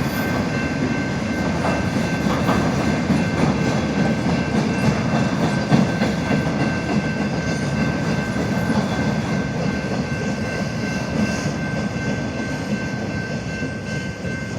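Norfolk Southern train rolling past at about 25 mph: a steady rumble of railcars with wheels clicking over the rail joints, and a few steady high tones over it.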